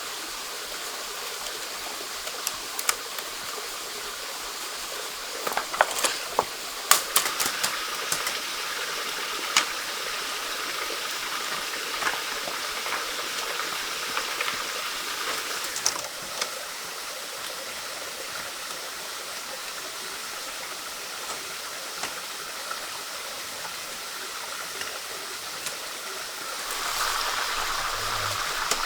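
Stream water running steadily, with a cluster of sharp clicks and knocks about six to ten seconds in and a few more later. The water gets louder near the end.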